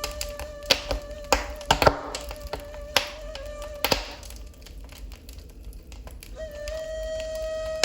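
Wood fire in a fireplace crackling with irregular sharp pops, over a long-held ney flute note that breaks off midway and comes back near the end.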